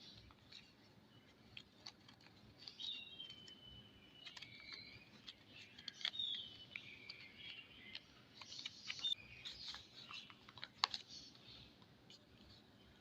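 Hands unpacking soap: light clicks and taps with crinkly packaging rustle, and two short squeaky slides about three and six seconds in.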